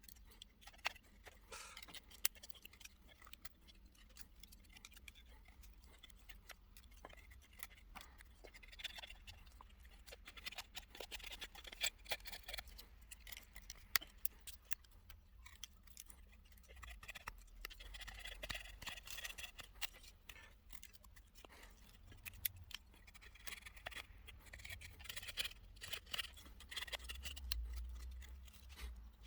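Knife blade shaving thin curls along a wooden stick to make a feather stick: repeated scraping strokes with small clicks and snaps, coming in runs of a few seconds with short pauses between.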